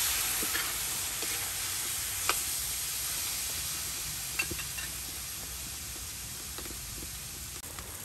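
Frog meat in a wok sizzling and hissing after a little water is poured in, the hiss slowly dying down, with a few light clicks along the way.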